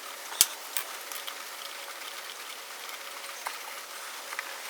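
Engine oil draining from a lawn mower's drain hole into a small bucket: a steady hiss with scattered small ticks, and one sharper click about half a second in.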